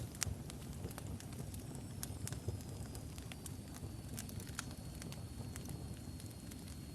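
Wood fire of burning logs crackling, with irregular sharp pops and snaps over a low steady rumble of flames.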